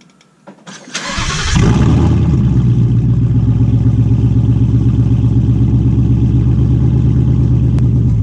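A 2018 Mustang GT's 5.0 L Coyote V8 starting through a newly fitted Steeda H-pipe (replacing an X-pipe), heard from under the car. It catches about a second in with a brief flare, then runs at a steady, loud idle with a deep exhaust rumble.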